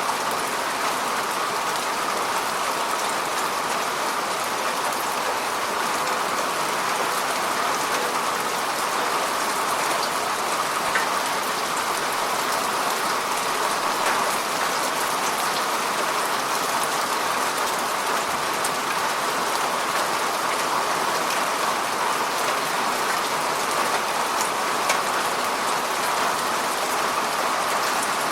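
Heavy rain falling steadily, a dense even hiss scattered with faint drop ticks.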